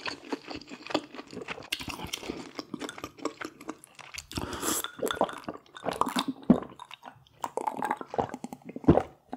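Mouth sounds of eating braised red sea bream: wet chewing and lip smacking with a few soft crunches.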